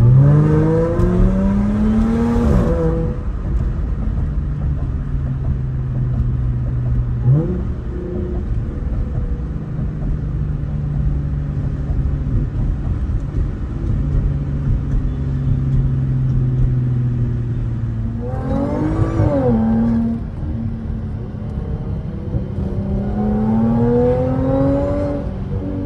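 Audi A6 C7's supercharged 3.0-litre V6 accelerating through the gears. The engine pitch climbs during hard pulls, drops at each upshift and holds steady while cruising, with renewed rising pulls about 18 and 23 seconds in.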